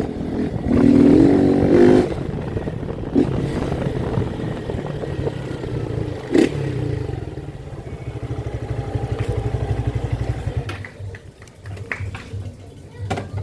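Honda CG 160 Titan's single-cylinder four-stroke engine revved up hard about a second in, then running at lower revs with a steady pulsing beat, easing off near the end.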